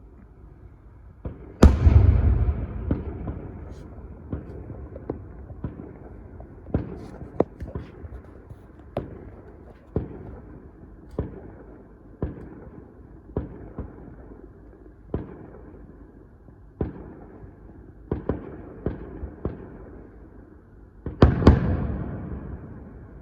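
Fireworks going off: a loud bang with a long rolling echo about a second and a half in, then a string of separate sharp bangs every second or so, and another loud burst of bangs near the end.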